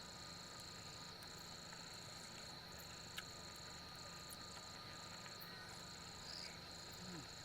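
Insects calling: one steady high-pitched trill held throughout, with a second, higher trill sounding in stretches of about a second broken by short gaps. A single faint click about three seconds in.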